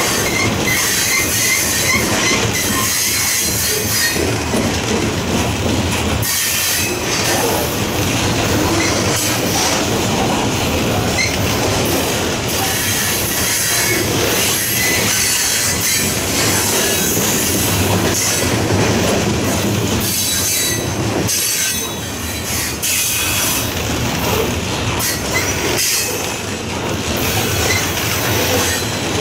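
Loaded covered hopper cars of a phosphate freight train rolling past close by. The steel wheels clack over the rail joints and the crossing, with a high squeal that comes and goes.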